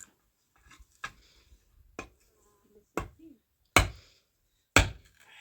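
Hammer blows on wood, five sharp knocks about a second apart, struck during rebuilding of a porch of wooden poles.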